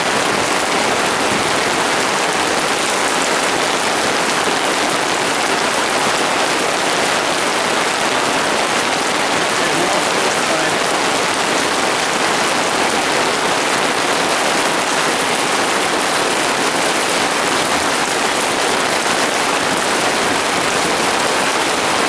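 Heavy downpour from a summer thunderstorm: a dense, steady hiss of rain falling.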